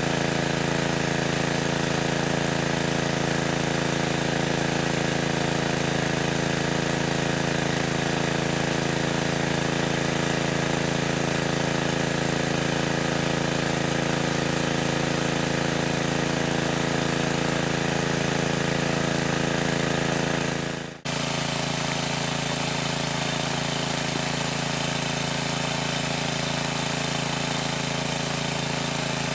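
A motor running steadily at a constant speed. The sound breaks off for a moment about two-thirds of the way through and then carries on much the same.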